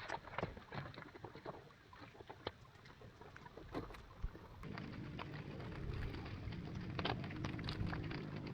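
Irregular small splashes and knocks of water around a bamboo raft; about halfway through, a steady low rushing noise sets in and carries on.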